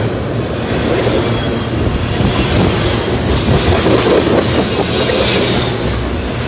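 Tank cars of a BNSF freight train rolling past close by: a loud, steady rumble of wheels on the rails.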